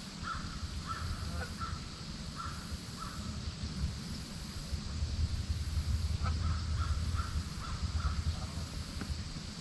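Two runs of short, harsh calls, about two a second, one near the start and another from about six seconds in, over a low rumble of wind on the microphone.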